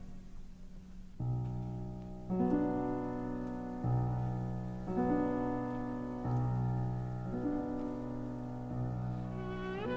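Piano playing slow, sustained chords, a new one struck about every second after a brief hush. Near the end a violin enters with an upward slide.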